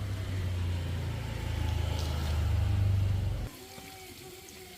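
A motor or engine running with a steady low hum that grows louder, then cuts off suddenly about three and a half seconds in.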